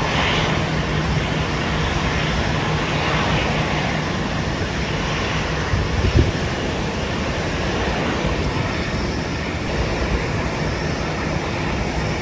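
Jet aircraft engine noise, a steady dense rush with a low hum, mixed with wind buffeting the microphone; a brief thump about six seconds in.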